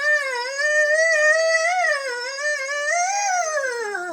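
A person singing a long, wordless, wavering high note through a voice filter, the pitch sliding down near the end.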